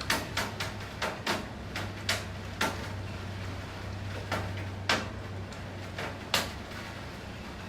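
Raindrops dripping irregularly onto a hard surface, about a dozen sharp taps with the loudest one about six seconds in, over a faint hiss of rain. A low steady hum underneath fades out about five and a half seconds in.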